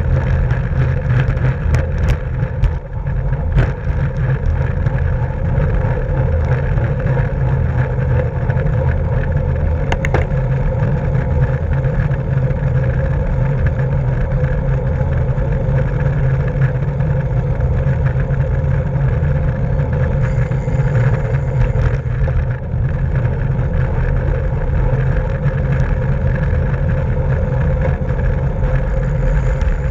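Steady rush of wind and road noise on a camera microphone riding along in a bicycle race, with a few sharp clicks in the first few seconds and again around ten seconds in.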